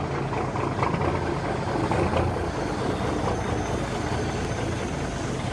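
Caterpillar 3406B inline-six diesel in a 1984 Peterbilt idling moments after catching on a cold start in about 20-degree weather, a little uneven for the first couple of seconds and then steady.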